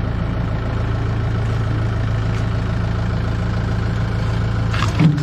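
Vehicle engine running at a steady speed with a constant low hum. A brief, louder knock-like sound comes near the end.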